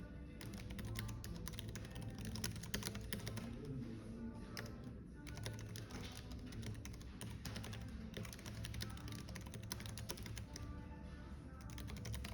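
Continuous typing on a computer keyboard, a dense patter of key clicks with brief pauses, over soft background music.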